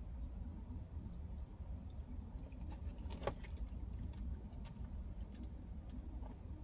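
Faint chewing and mouth clicks of someone eating pizza, over a low steady hum.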